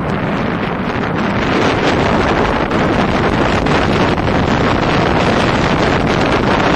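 Loud, steady wind buffeting the microphone, an even rush with no clear engine note.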